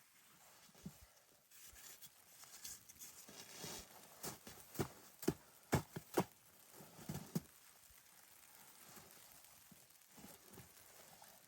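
A quick run of about seven sharp knocks or taps in the middle of the clip, over a faint background hiss.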